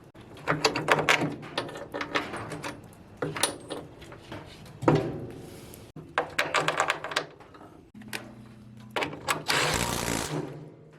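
Steel hardware and hand tools clanking and rattling in an irregular series of knocks, some with a brief metallic ring, as a sawmill's board-splitter bracket is worked on. A denser rasping stretch comes near the end.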